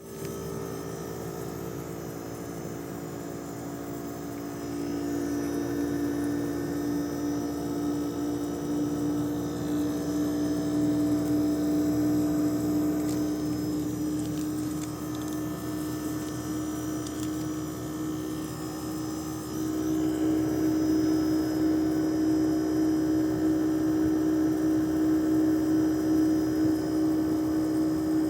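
Outdoor condenser unit of an HQ split air conditioner running with a steady, loud hum and a strong droning tone, growing louder about five seconds in and again about twenty seconds in. The owner finds the condenser abnormally noisy.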